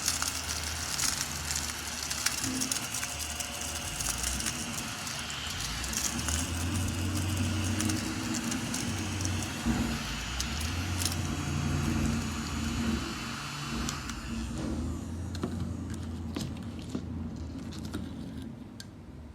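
A mini cordless vacuum cleaner running, with a low motor hum and a hiss of air, and many small clicks as debris rattles up into it. The hiss fades out about three-quarters of the way through.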